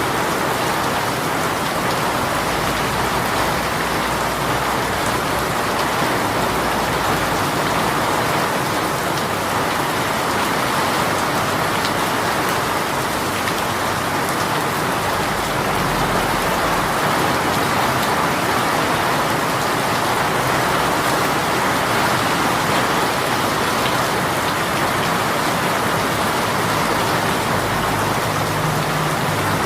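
Heavy shower rain falling steadily, a dense even hiss of drops hitting a surface with fine individual drop ticks.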